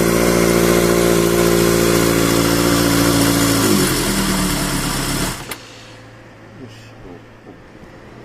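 Kawasaki Z650 'Zapper' air-cooled inline-four engine running at a steady idle, then slowing about four seconds in and stopping abruptly just past five seconds as it is switched off.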